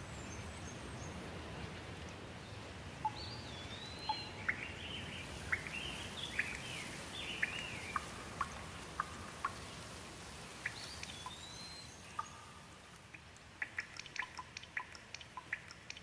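Steady rain with a bird calling over it: a string of short whistled notes rising and falling for several seconds, then one more brief call. Near the end the rain thins and sharp drips tick irregularly.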